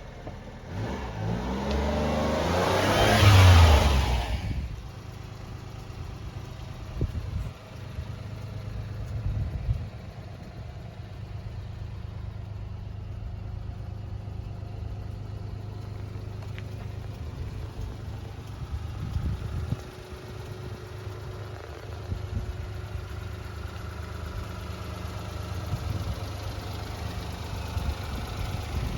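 1995 Honda Acty truck's small three-cylinder engine revved up once a few seconds in, then idling steadily.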